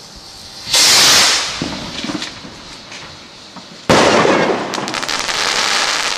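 Fireworks going off: a loud burst about a second in that fades away, then a sharp bang near four seconds followed by a couple of seconds of rapid crackling.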